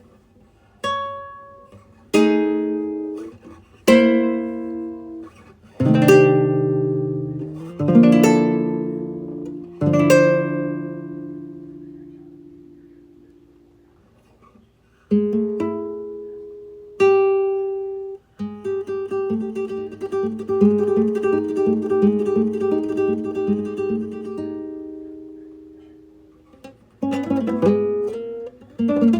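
Acoustic guitar music: single chords struck about every two seconds and left to ring out, then a quicker picked passage from a little past halfway, with fresh chords near the end.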